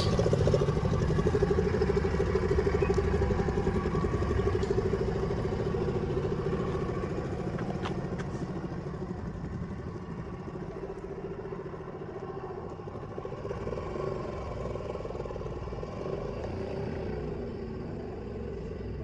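Car engine running steadily, its sound slowly fading as the car moves away.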